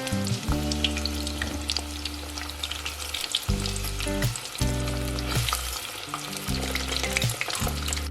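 Breaded chicken wings deep-frying in hot cooking oil, a steady sizzle full of small crackles.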